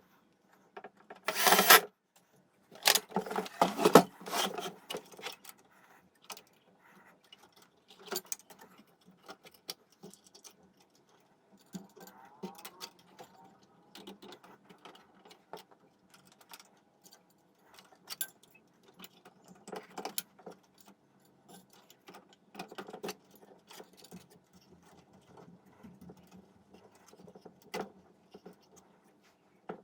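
Irregular clicks, taps and rattles of small hard parts being handled and fitted, with a louder scraping burst about a second and a half in and a cluster of knocks a little after.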